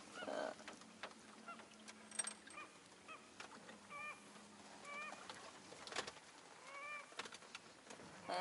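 A bird calling over and over: faint, short calls that rise and fall in pitch, repeated about every half second to a second.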